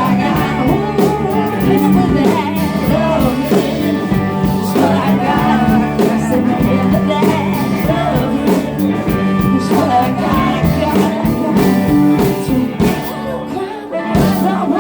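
Live rock band playing with a singer: vocals over electric guitar, bass and drums, with a steady beat.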